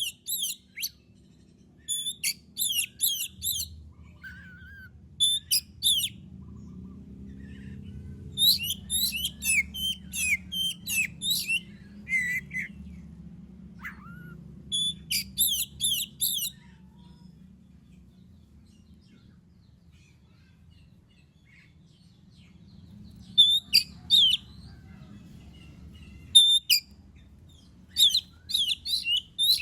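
Oriental magpie-robin (kacer) singing in bursts of fast, high-pitched, repeated chattering notes, with a gap of several seconds midway before the song resumes.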